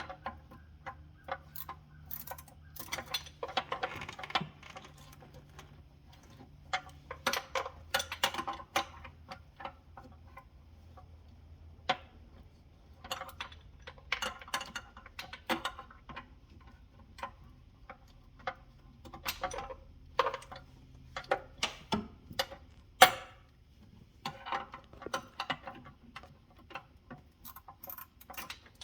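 Irregular metallic clicks and clinks of hand work on engine parts, with short runs of rapid clicking and a sharper knock about 23 seconds in, over a faint steady low hum.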